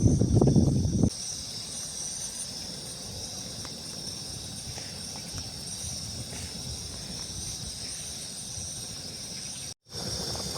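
Steady high-pitched chirring of insects, with a loud low rumble in the first second that cuts off abruptly, and a brief gap near the end.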